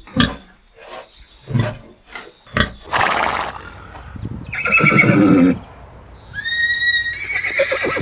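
Farm animal calls: a run of short low grunts in the first few seconds, then a loud call about halfway through and shorter pitched, wavering calls near the end.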